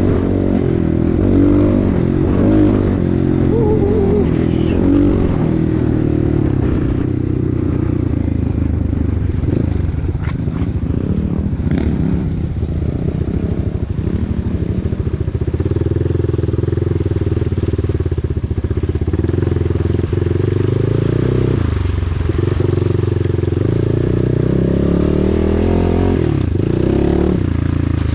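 Enduro motorcycle engine running under load, its revs rising and falling as the rider works the throttle.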